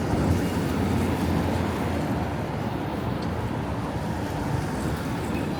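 Steady low rumble of city street traffic, an even noise with no single event standing out.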